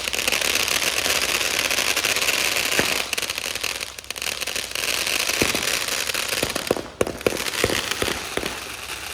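Aerial fireworks going off: a dense, continuous crackle, with several sharper bangs in the second half.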